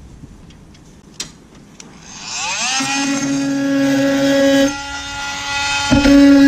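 Electric power tool spinning up about two seconds in with a rising whine, then running at a steady high pitch; it drops off briefly near the end and picks up again with a knock.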